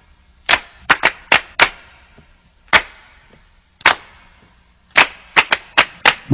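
A string of about a dozen sharp, irregularly spaced snaps or clicks, several in quick succession near the end.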